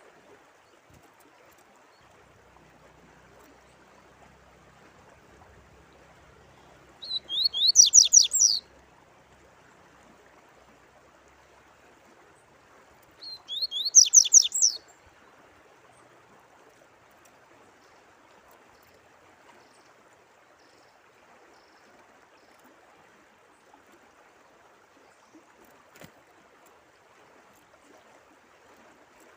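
A songbird sings two short, loud phrases of quick descending whistled notes, about six seconds apart, over a steady background of running water.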